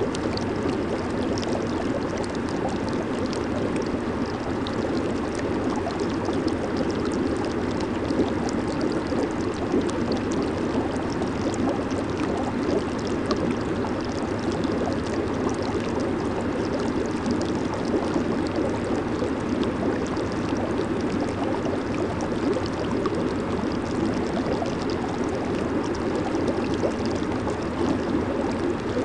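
Jacuzzi water churning and bubbling steadily, an even rush with small bubble pops.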